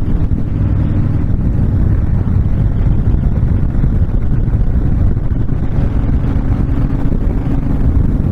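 Wind buffeting the microphone at highway speed over the steady running of a Honda VTX1300's V-twin engine at cruise.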